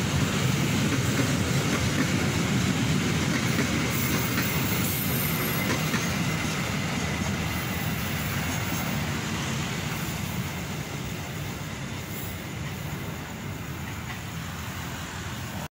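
Stainless-steel passenger coaches of a train running past on the rails, the wheel and track noise fading slowly as the end of the train draws away.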